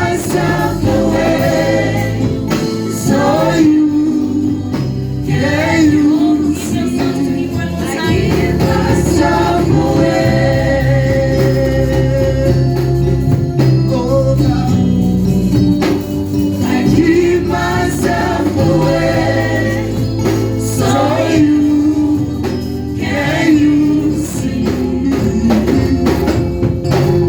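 Gospel worship music: a choir singing over a live band with bass, drums and tambourine.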